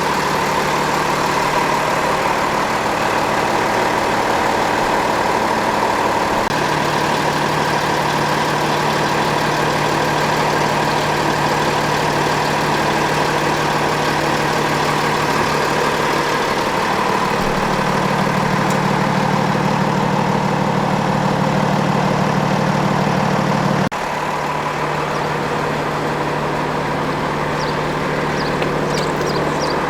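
Water truck's engine running steadily at idle. Its low hum shifts in pitch twice and changes suddenly near the end.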